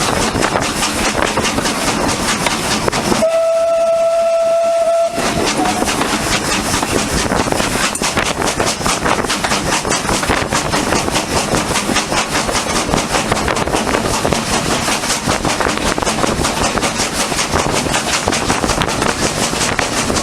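A steam locomotive's whistle sounds one steady blast of about two seconds, a few seconds in, over the continuous noise of the train running.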